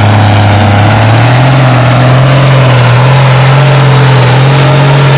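Farmall 560 tractor engine running hard under load, pulling a weight-transfer sled. Its pitch steps up about a second in and then holds steady.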